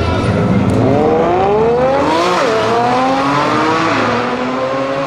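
A tuned Mercedes-Benz E500 4.7 twin-turbo V8 with a custom downpipe and exhaust accelerating hard. The engine note climbs, drops sharply about two seconds in as it shifts up, climbs again, and drops at a second upshift near the end.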